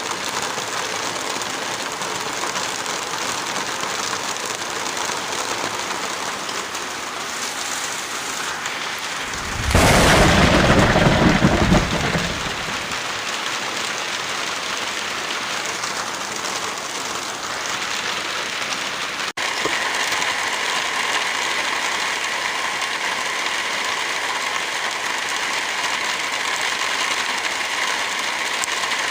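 Steady heavy rain falling, with one loud thunderclap rumbling for about three seconds about a third of the way in. Near two-thirds through there is a brief cut, after which the rain continues slightly louder and steadier.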